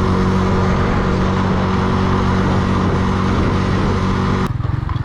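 Motorcycle engine running under way, with wind and road noise. About four and a half seconds in, the wind noise drops away and the engine falls to a slower, evenly pulsing beat as the throttle closes and the bike slows.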